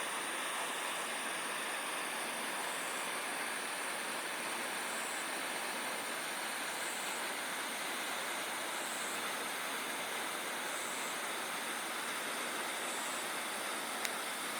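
Steady, even background hiss with a faint high-pitched whine running through it, and one tiny click near the end.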